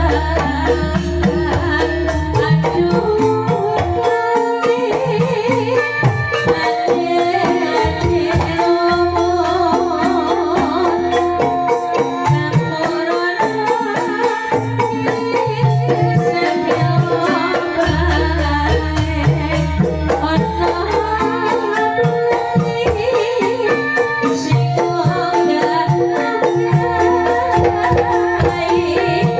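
Calung Banyumasan music: bamboo xylophones playing an interlocking melody over hand-drum (kendang) rhythm, with a singing voice and deep bass notes that come and go.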